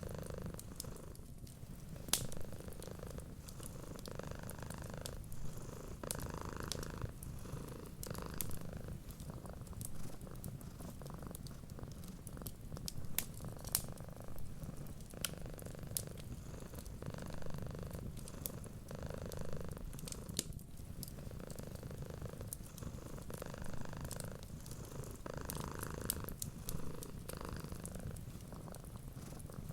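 Domestic cat purring steadily, the purr rising and falling with each breath in and out, over scattered small crackles from a wood fire.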